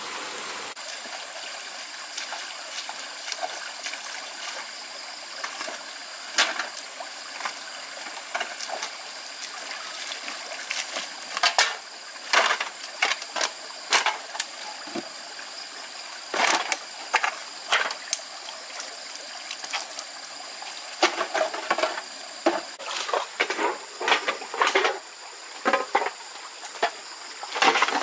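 Water running steadily, with repeated short splashes and knocks from about ten seconds in that come more often toward the end.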